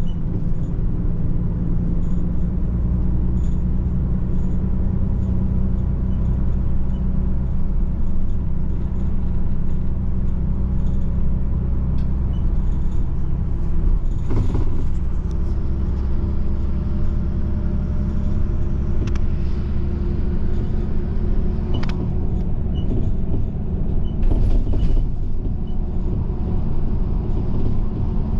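Inside a moving bus: the diesel engine and road noise make a steady low drone, with a few faint rattles and clicks.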